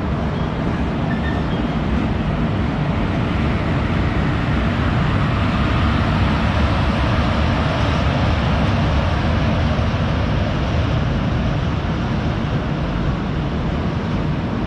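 Passenger train hauled by an electric locomotive rolling slowly past on the adjacent track, a steady rumble of wheels on rails. It swells a little about halfway through as the locomotive draws alongside.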